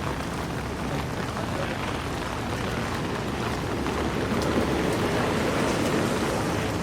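Steady heavy rain falling on a city street, mixed with traffic noise on the wet road; a low rumble grows a little louder about halfway through.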